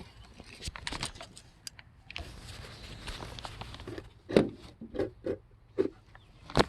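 Scattered clicks and knocks of hand work on parts, with a stretch of steady rustling hiss in the middle and a quick cluster of knocks near the end.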